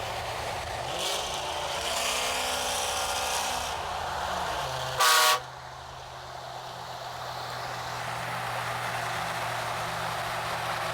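A car horn gives one short toot about five seconds in, the loudest sound here. Around it, vehicle engines run: one rises in pitch briefly near the start, and a steady low engine idle follows the toot.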